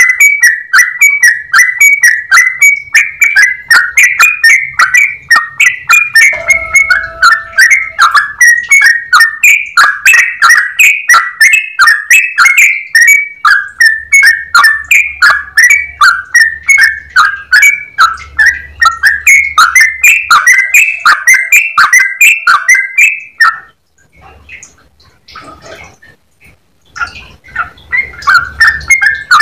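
Yellow-vented bulbul (trucukan) singing a long, fast run of clear repeated notes, about four to five a second. The song breaks off about 23 seconds in and starts again near the end.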